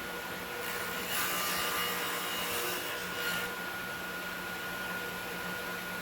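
Table saw blade cutting a spline groove along a board's edge for about three seconds, starting just under a second in, over the steady hum of the running saw.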